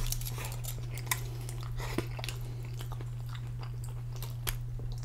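A person chewing a mouthful of lamb wrap close to the microphone, with many small, irregular wet mouth clicks and smacks. A steady low hum runs underneath.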